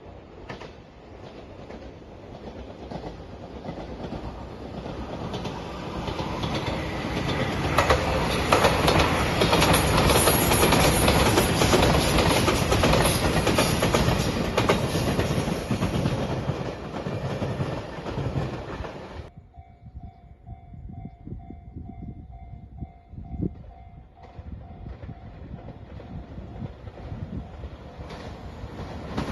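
A JR limited express train passing over a level crossing: the noise builds for several seconds, is loudest from about 8 to 18 seconds in, then breaks off abruptly. After the break, steady ringing tones from the level-crossing warning signal are left, and near the end a second train starts to approach.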